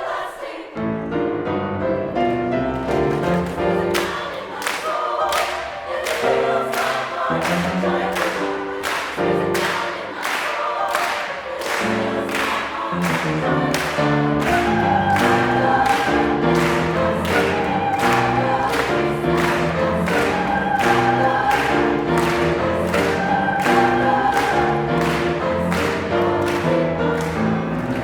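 Mixed choir singing in harmony. A few seconds in, a steady beat of sharp strikes joins it, about two a second.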